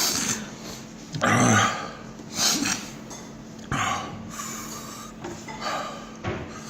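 A man breathing hard in short, noisy gasps and snorts, about six of them, as he reacts to the burn of a Carolina Reaper chili.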